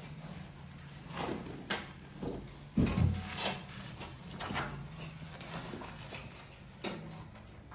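Irregular knocks and scrapes, a few strokes spread out with the loudest about three seconds in, over a faint steady low hum.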